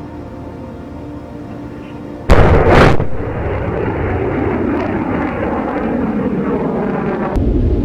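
Missile launch: music, then about two seconds in a sudden loud blast of rocket-motor ignition, followed by a steady rocket roar, with a second surge of roar near the end.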